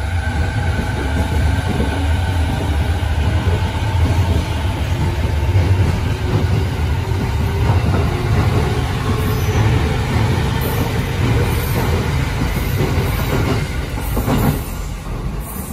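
Electric commuter train running past along the platform: a loud rumble of wheels on rail under a motor whine that rises slowly in pitch as the train gathers speed. The sound falls away once the last car has passed, near the end.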